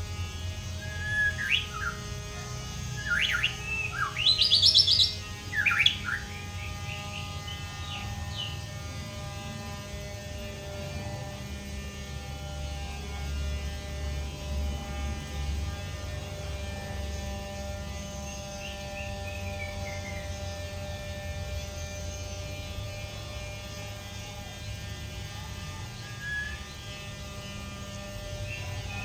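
White-rumped shama (murai batu) giving short bursts of sharp chirps and whistled notes, loudest about four to six seconds in, then only occasional faint chirps. A steady hum runs underneath.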